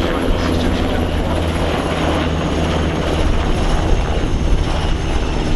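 Formation of military helicopters, Tiger attack helicopters and MRH-90 Taipans, flying: the steady rumble of turbines and rotors, with a fast, even low beat from the rotor blades.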